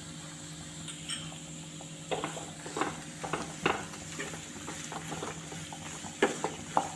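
Sliced onions frying in butter in a pan, stirred with a spatula: short, irregular scraping strokes against the pan, starting about two seconds in, over a faint steady sizzle and hum.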